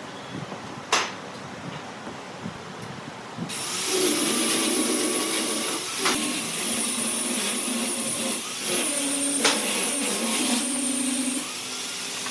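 A sharp knock about a second in. Then a workshop machine starts abruptly a few seconds in and runs steadily with a high hiss, dropping slightly in level near the end.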